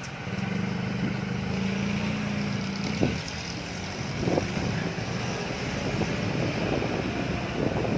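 Yamaha Mio Soul i 115 scooter's single-cylinder engine running while ridden on the road, its engine oil drained. The engine note holds steady, with a couple of short knocks partway through.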